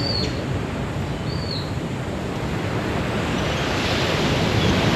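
Steady rushing noise of ocean surf, with two short, high, falling chirps in the first two seconds.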